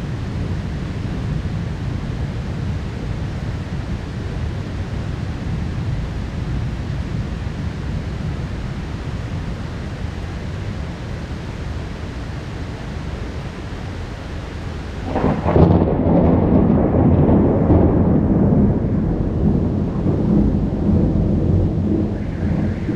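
Heavy rain falling steadily over a low rumble of a thunderstorm; about fifteen seconds in, a loud thunderclap breaks in suddenly and rumbles on for several seconds.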